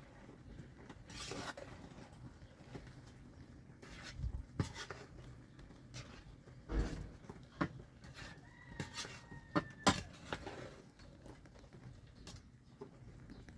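Scattered light knocks and clicks, loudest about seven and ten seconds in, with a faint drawn-out high call in the background from about eight to ten seconds in.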